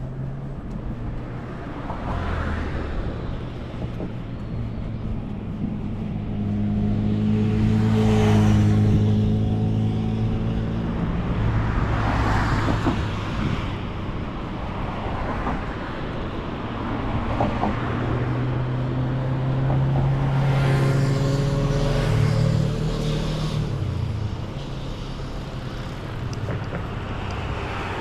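Road traffic: a run of cars passing close by one after another, each with a low engine hum and tyre noise that swells and fades.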